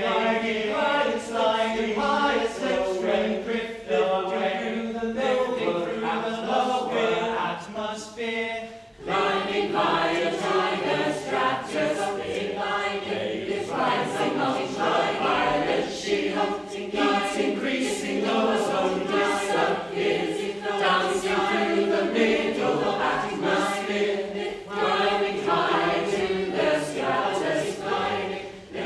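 Choir singing together, with a short break about nine seconds in before the voices come back in.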